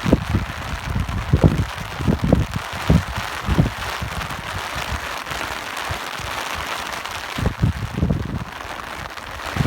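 Steady rain hissing, with wind buffeting the microphone in irregular low gusts, strongest a second or two in and again near the end.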